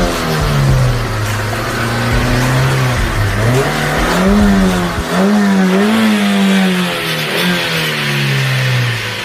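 A revving car engine sound, its pitch rising and falling several times.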